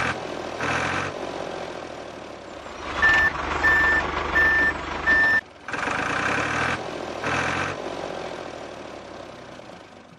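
Reversing alarm beeping four times, evenly spaced about two-thirds of a second apart at one steady pitch, over the continuous noise of a working vehicle engine.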